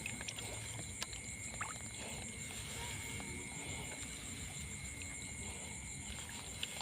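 Quiet outdoor ambience: a steady high-pitched drone over a soft background hiss, with a few faint clicks.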